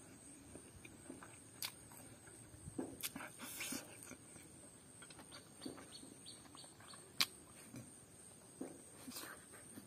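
Close-up mouth sounds of eating rice and pork curry by hand: soft chewing and lip smacking with scattered small clicks, and a few sharper clicks, the sharpest about seven seconds in.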